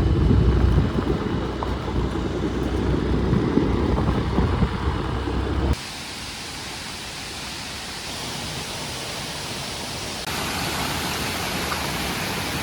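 A loud low rumble that cuts off abruptly about six seconds in, giving way to the steady rushing hiss of a waterfall, which grows a little louder at about ten seconds.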